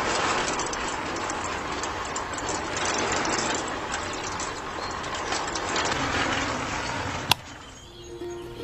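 Small electric motor driving a miniature concrete mixer's drum of wet cement, a steady rattling whir. It stops with a sharp click about seven seconds in, as the mixer is switched off.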